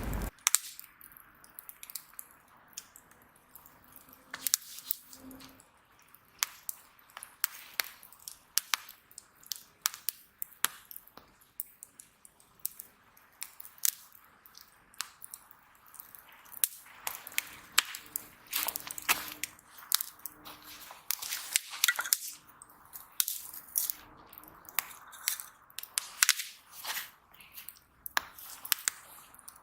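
Wood fire crackling: irregular sharp pops and snaps, several a second, over a faint hiss of burning wood.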